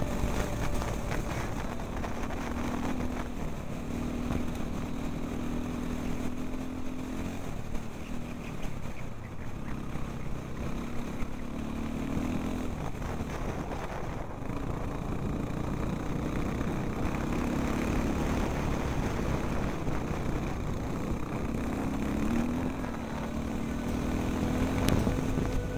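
Off-road enduro motorcycle engine running under way, its pitch rising and falling again and again with the throttle and gear changes, over a constant rush of wind and road noise.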